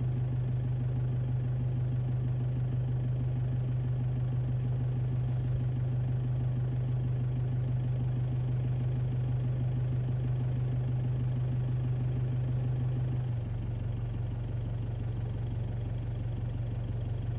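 A vehicle engine idling steadily with a low, even hum, its level dropping slightly about 13 seconds in.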